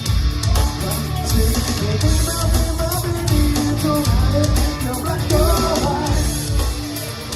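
Live covers band playing a rock song with electric guitar, bass and drum kit; a voice or lead line is heard over it without clear words.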